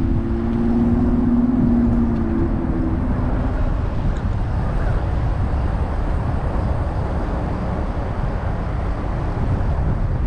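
Wind noise on a bike-mounted action camera's microphone while riding, a steady low rumble. A steady hum sounds over it for the first three seconds or so, then fades out.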